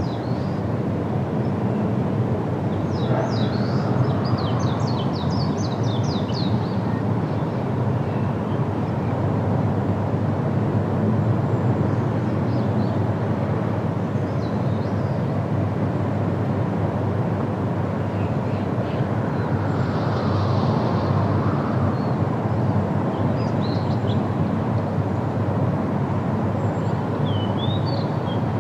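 Several short, high bird chirps over a steady low rumbling noise, with a quick run of chirps about three to six seconds in.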